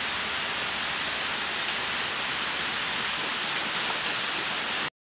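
Heavy rain falling steadily as an even hiss of water, cutting off abruptly just before the end.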